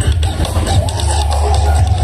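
Music played very loud through a large carnival sound-system rig. Very heavy deep bass is the loudest part, under a melody line in the middle range.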